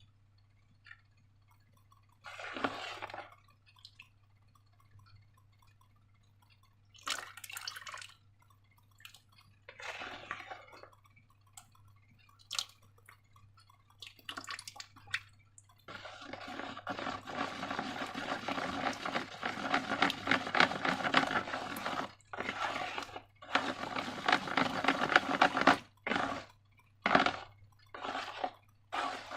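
Sticky slime being squished and stretched by hand: a few separate wet squelches at first, then from about halfway a continuous crackling squish broken by short pauses.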